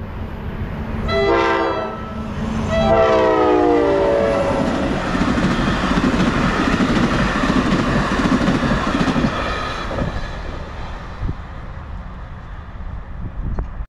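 NJ Transit passenger train blowing its horn as it passes: a short blast, then a longer blast whose pitch drops as the train goes by. Then the rumble and wheel clatter of the bilevel coaches rolling past, easing off near the end.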